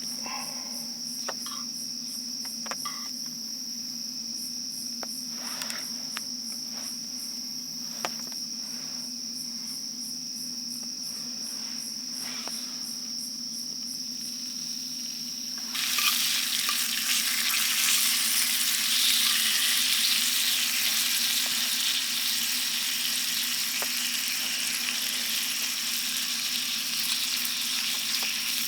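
Crickets chirring steadily. About halfway through, food goes into a hot skillet and starts sizzling loudly, covering the crickets for the rest of the time.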